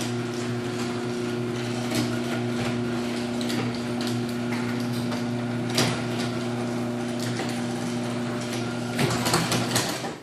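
Liftmaster chain-drive garage door opener running as it raises the door: a steady motor hum with the chain and rollers clicking and rattling. Near the end a few knocks come as the door reaches the top, and the motor stops.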